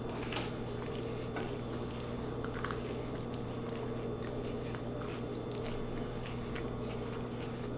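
Soft chewing of lo mein noodles, with scattered faint wet mouth clicks over a steady low electrical hum.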